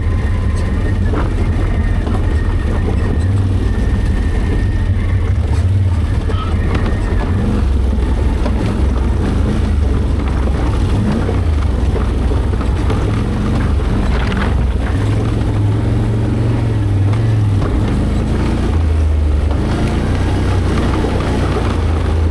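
ATV engine running at low speed down a rocky trail, a steady low rumble that shifts in pitch now and then, with faint knocks over the rocks.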